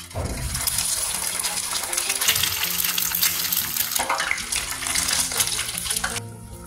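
An egg dropped into hot oil in a frying pan, sizzling and crackling loudly, with a fresh surge of sizzling about four seconds in that eases near the end. Soft background music underneath.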